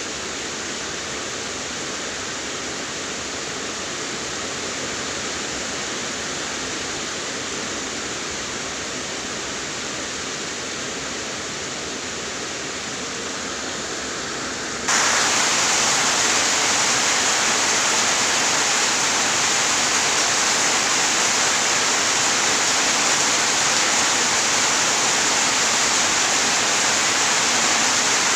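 Steady heavy rain as an even hiss with no distinct drops or thunder. About halfway through, it steps abruptly louder and brighter, as if cut to a heavier downpour.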